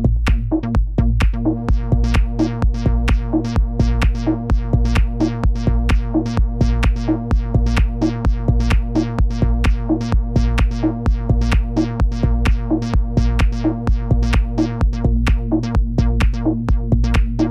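Experimental techno loop made with Ableton Live 10's built-in instruments: a steady, evenly repeating drum-machine beat over a sustained synth drone and bass.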